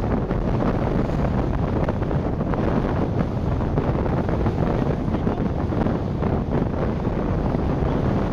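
Steady wind buffeting the microphone aboard a sailboat, a dense low rumble.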